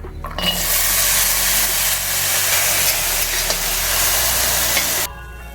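Chopped vegetable stalks sizzling in hot oil in a kadhai as they roast: a steady, loud hiss that starts suddenly and cuts off near the end.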